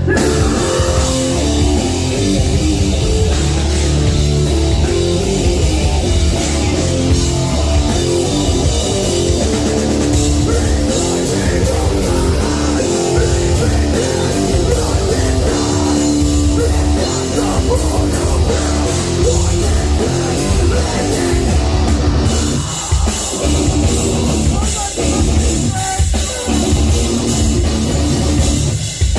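Loud live heavy metal band playing: distorted electric guitars over a pounding drum kit and bass, with brief stop-start breaks in the last few seconds.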